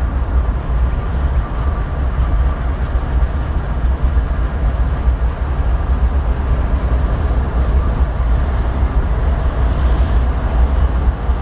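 Freight train led by several BNSF diesel locomotives approaching on the main line, a steady heavy low rumble of engines.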